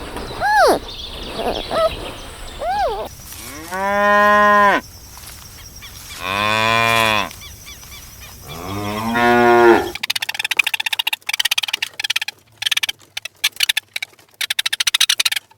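Cow mooing three times, each moo about a second long, with a few short rising-and-falling chirping calls before them. Near the end comes a rapid clattering of many quick clicks.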